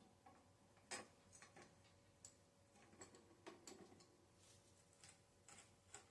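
Faint, irregular light clicks and taps of metal parts being handled while a bicycle's front wheel is fitted, the sharpest about a second in.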